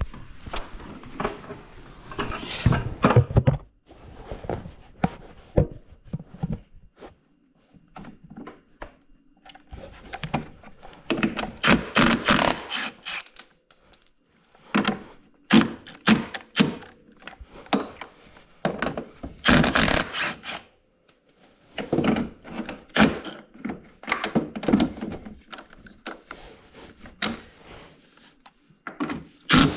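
Hand tools working on a snowmobile's diamond drive bolts: irregular knocks, clunks and clatter of metal tools, with short pauses between bouts.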